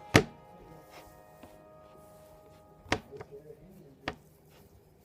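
A few sharp knocks and taps of kitchen things on a counter. The loudest comes right at the start, with two more about three and four seconds in, over faint steady tones.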